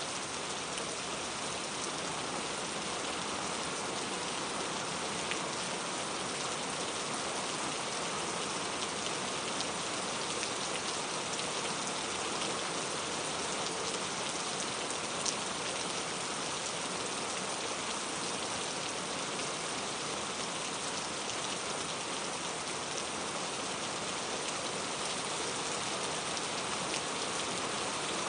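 Steady rain falling on a surface, an even hiss with scattered individual drop ticks and one slightly louder tick about halfway through.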